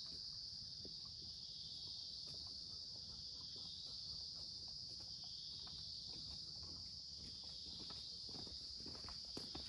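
Steady high-pitched chorus of insects, a continuous shrill drone, with a few light taps near the end.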